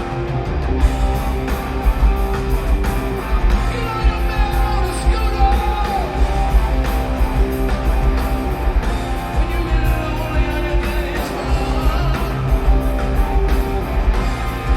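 Live rock band playing loud, with drums, electric guitar and singing.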